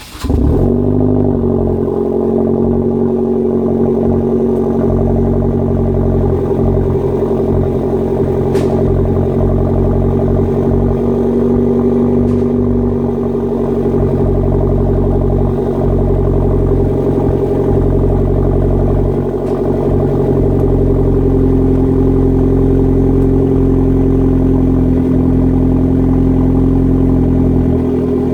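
Hyundai Genesis Coupe 2.0T's turbocharged four-cylinder engine catching with a brief rev flare, then settling into a steady idle through a 3-inch Depo Racing downpipe, test pipe and Solo Performance catback exhaust. The idle steps up slightly about two-thirds of the way in.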